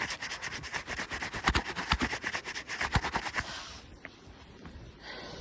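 Deep, fresh blizzard snow crunching and scraping in a quick, dense run of crackles as someone pushes through it on foot. It stops about three and a half seconds in.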